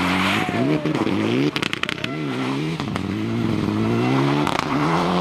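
Rally car engine revving hard, its pitch climbing and dropping repeatedly as it is driven through the gears and lifts for corners. A quick burst of sharp cracks comes about one and a half seconds in.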